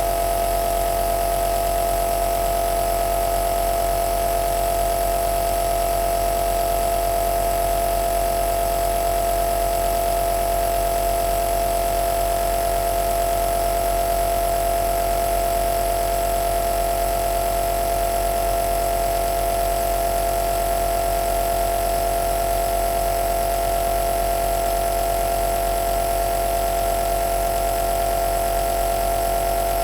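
Compressor nebulizer running steadily: a constant motor hum with one strong mid-pitched tone and no change in speed.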